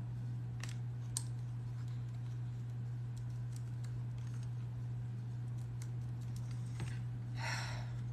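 Scattered small clicks and taps of drill bits being handled, with a short rustling scrape near the end, over a steady low hum.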